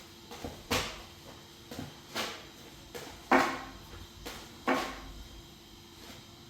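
A series of sharp knocks and clacks in a small room, four louder ones with quieter taps between them, the loudest about three seconds in.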